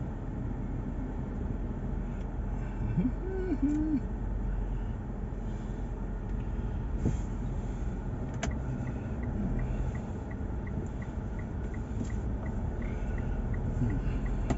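Steady low road and engine rumble inside a moving car's cabin. About halfway through there is a sharp click, followed by a light, even ticking about three times a second.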